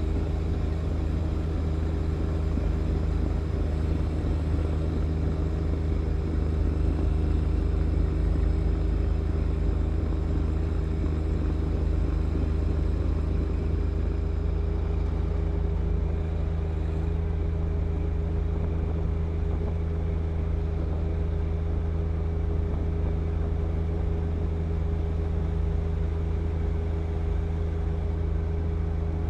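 John Deere 1025R compact tractor's three-cylinder diesel engine running at a steady drone, the snow blower working.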